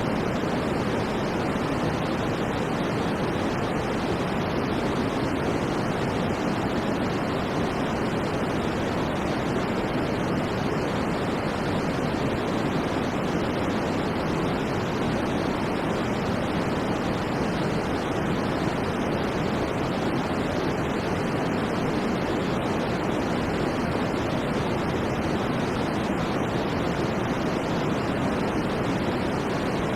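Steady white noise, an even, unbroken hiss that never changes, fuller in the low-middle range than at the top.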